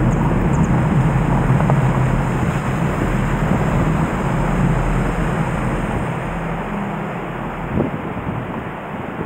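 Swollen Nagara River in flood, a loud steady rushing of fast water, with a low hum underneath that eases off slightly in the second half.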